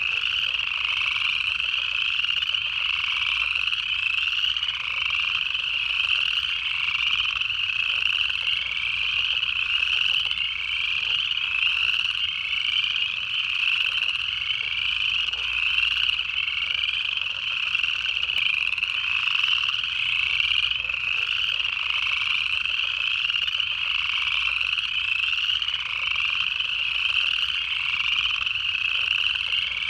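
Dense chorus of upland chorus frogs, many overlapping ascending trills repeated over and over at a steady level.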